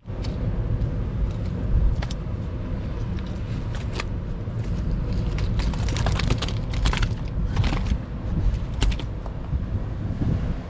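Strong wind buffeting the microphone, a loud, uneven low rumble, with scattered clicks and crackles over it.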